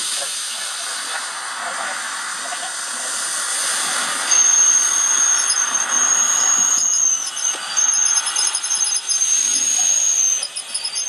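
Ryobi cordless drill turning a hand-crank winch: a high-pitched whine that starts about four seconds in and runs in spurts, stopping briefly a few times, over a steady hiss.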